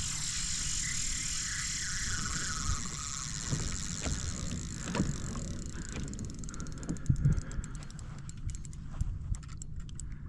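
Spinning fishing reel working under load from a big fish, giving a fast mechanical ticking of drag and gears, with a steady hiss of water and wind in the first few seconds and a few knocks against the kayak.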